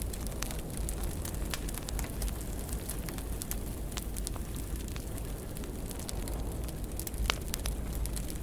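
Wood fire burning in a fireplace, with a steady low rumble and frequent irregular crackles and pops; the sharpest pop comes near the end.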